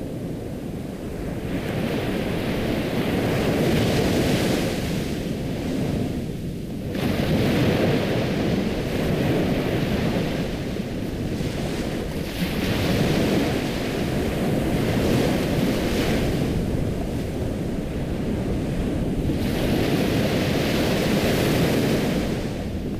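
Ocean waves breaking and washing up, swelling and ebbing in surges every five seconds or so.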